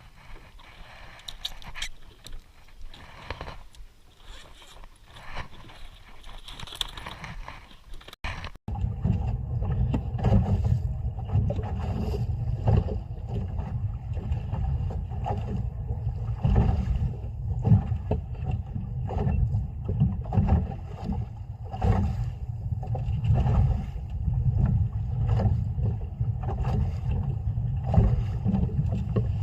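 Small fishing boat at sea: low rumbling wind-and-water noise with frequent knocks and slaps. It becomes suddenly louder and heavier about eight seconds in.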